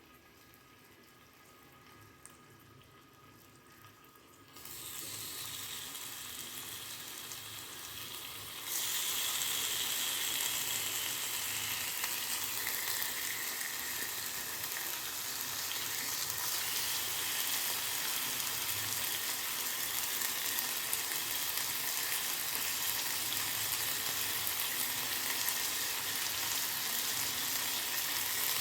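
Marinated tandoori chicken pieces sizzling in hot oil on a grill pan. Quiet at first; the sizzle starts about four and a half seconds in and grows louder about nine seconds in, then holds steady.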